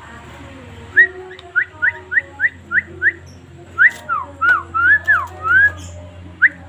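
Pied starling (jalak suren) whistling: a quick series of about seven short rising whistles, then a run of longer whistles gliding up and down, and two more short notes near the end.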